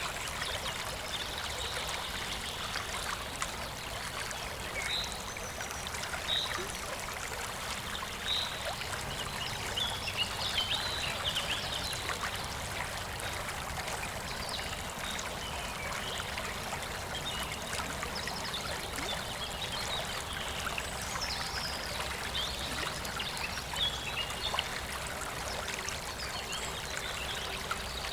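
Shallow rural stream of clear water babbling and trickling steadily over stones.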